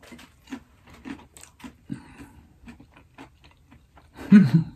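Mouth-close chewing of a crisp Reuben chaffle, a cheese-and-egg waffle, with small crunches and mouth clicks about twice a second. Near the end there is a short, loud voice sound.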